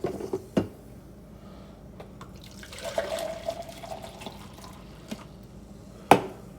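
Kitchen sink tap running for about two seconds in the middle, with a few light knocks of dishes before it and one louder clack near the end.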